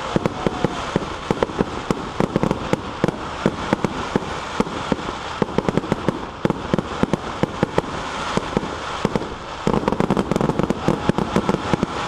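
A rapid, irregular run of sharp cracks and pops, several a second, over a steady noisy background, growing denser near the end.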